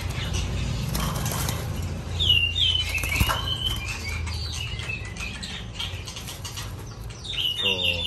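Caged songbirds chirping, with a few short squeaky calls about two to three seconds in, over wings fluttering and light rustling against the cage wire.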